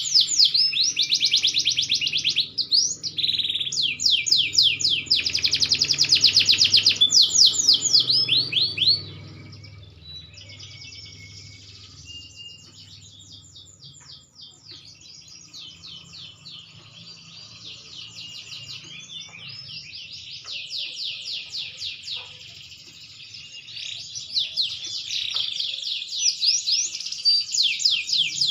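Green canary singing a long song of fast trills and rapid runs of repeated notes. The song is loud for the first third, softer through the middle, and loud again near the end.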